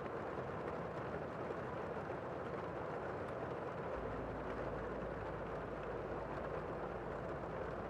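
Steady rain falling outside, an even hiss without distinct drops.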